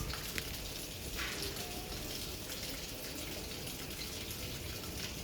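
Steady hiss of running water, with a faint click or two.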